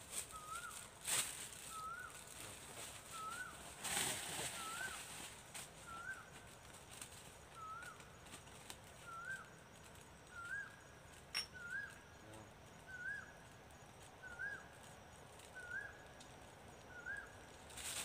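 A bird repeats one short rising-and-falling call about every second and a half. Rustling and clatter of gear being handled stand out about one and four seconds in.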